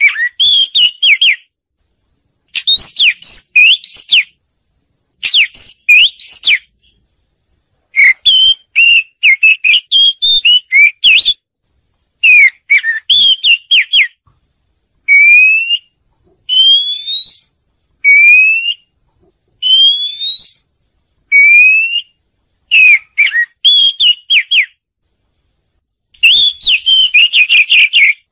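Oriental magpie-robin song: short bursts of clear, varied whistled notes, with several phrases of rising slurred whistles in the middle, each phrase followed by about a second of silence. It is lure song of the kind played to stir magpie-robins into singing or to draw them to a trap.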